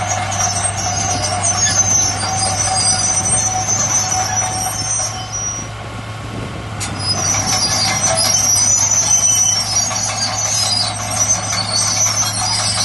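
Heavy earthmoving machinery running with a steady low diesel drone, under high-pitched metallic squealing that breaks off briefly about halfway through and then resumes.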